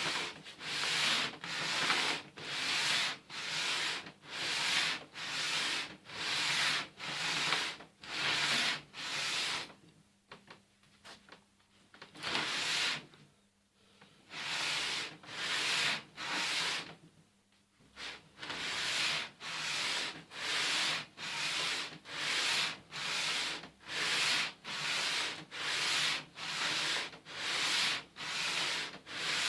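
An exhaust manifold flange being lapped flat, pushed back and forth over sandpaper on a sheet of glass. The rasping strokes come about one and a half a second, with a couple of short breaks in the middle.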